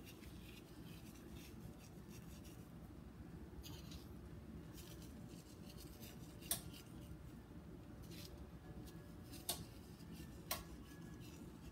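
Faint handling sounds as graham cracker crumbs are sprinkled by hand over ice cream in a pan: a few soft, scattered clicks, the clearest in the second half, over a low steady room hum.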